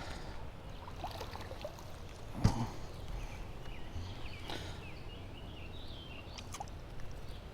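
Handling noises in a bass boat while a small bass is unhooked: light clicks and rattles, with one sharp knock about two and a half seconds in, over a steady low outdoor rumble.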